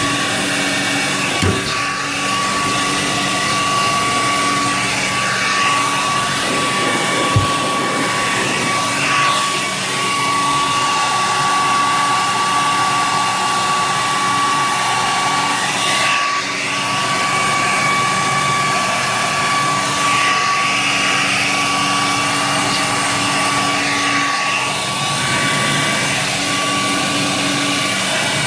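Hand-held hair dryer running steadily, blowing warm air into the back of a freezer to melt ice from around the fan, a rush of air with a steady whine. A single click about seven seconds in.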